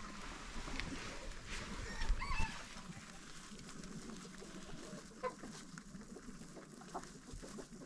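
Chickens clucking and calling, with a quick cluster of short calls about two seconds in and a single call about five seconds in.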